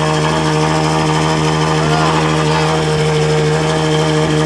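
Ferrari 812's 6.5-litre naturally aspirated V12 with a Novitec exhaust idling steadily and very loudly after a cold start, held at a fast idle with no revving. It is loud because on a cold start the exhaust valves go fully open.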